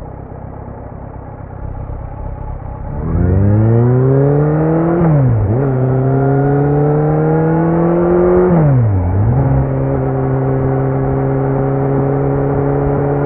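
2018 Kawasaki Z900's inline-four engine through a Leo Vince muffler with no dB killer. It runs low at first, then accelerates hard from about three seconds in, its pitch climbing, dropping sharply at two upshifts a few seconds apart, and settling at a steady cruise for the last few seconds.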